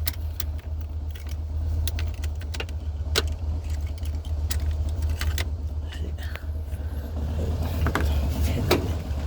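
Car keys jangling, with scattered sharp clicks and knocks, as the ignition key is handled to try to start the car, over a steady low rumble.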